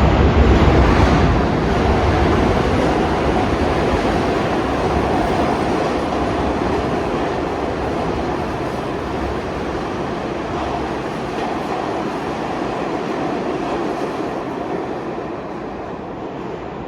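New York City subway train running past on the track, a dense rumble that is loudest at first and fades steadily as the train moves away.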